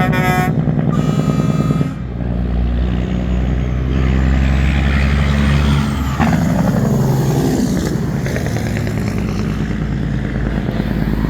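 Diesel semi-truck engines running as parade trucks drive past, with several pitches falling off partway through as a truck goes by.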